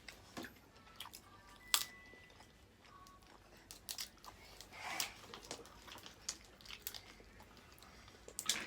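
Faint eating sounds: scattered short clicks and crunches of chewing and handling food.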